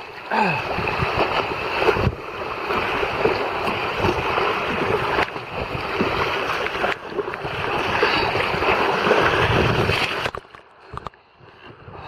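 Sea kayak being paddled on open water: a steady rush of water and splashing around the boat, mixed with wind on the microphone. It drops away briefly near the end.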